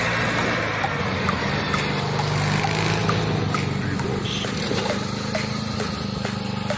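Small lawn tractor engine running steadily, with a slight rise in pitch partway through.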